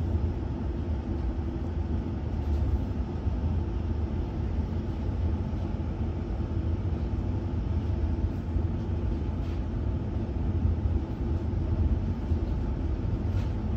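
Steady low rumble of a ČD InterJet passenger coach (Siemens Viaggio Comfort) in motion, heard from inside the first-class cabin, with a few faint clicks.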